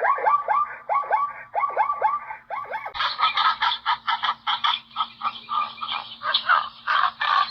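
Animal calls: short hooked calls repeated about three to four times a second, changing suddenly about three seconds in to a denser, faster chorus of higher calls.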